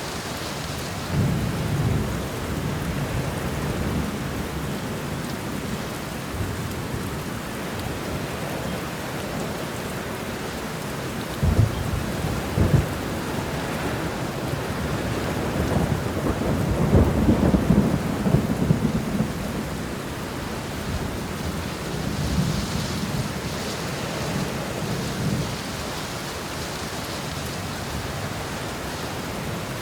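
Steady rain falling, with thunder rumbling in low swells. Two sharp cracks of thunder come about twelve seconds in, and a longer, louder rumble builds a little past halfway.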